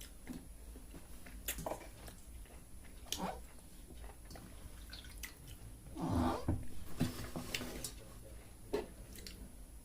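Close-miked eating sounds: scattered wet mouth clicks and chewing as pakhala rice and curry are eaten by hand, with a louder, longer sound about six seconds in.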